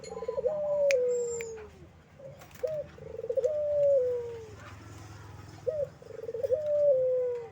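Puter dove (domesticated Barbary dove) cooing its phrase three times, about every three seconds: a short rising note, a quick rolling stutter, then a long coo falling in pitch.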